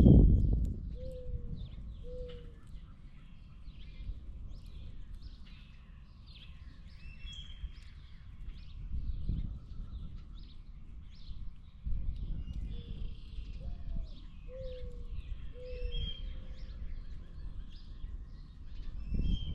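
Many small birds chirping and calling, with several short, falling lower call notes among them, over a steady low rumble.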